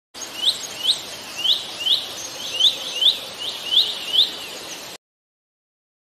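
A bird's short rising chirps, repeated about twice a second over a steady hiss. They cut off suddenly about five seconds in, leaving silence.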